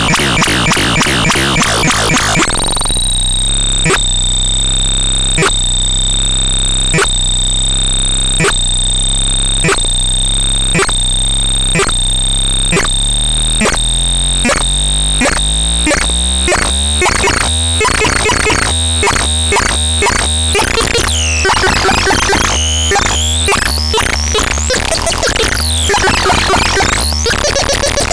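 TADRALAN NT 202 electronic synthesizer sounds: two steady high tones over a regular click pulse that speeds up, with low bass notes stepping underneath. In the last third these give way to sweeping tones that rise and fall.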